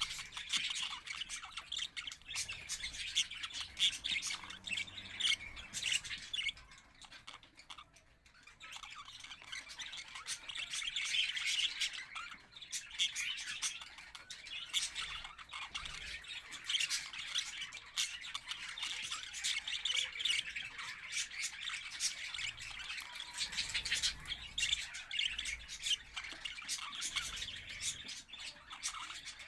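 A group of cage birds chirping and chattering, many quick overlapping calls with the odd squawk, thinning out briefly about seven seconds in before picking up again.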